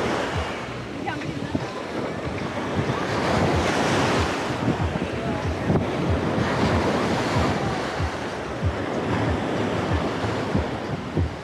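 Sea waves washing onto the shore, swelling at the start and again about four seconds in, with wind buffeting the microphone in short low thumps.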